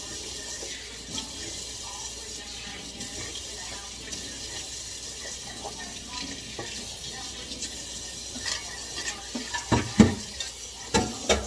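Tap water running steadily into a sink during hand dish-washing. Several sharp clatters of dishes or utensils come near the end; the loudest are about ten and eleven seconds in.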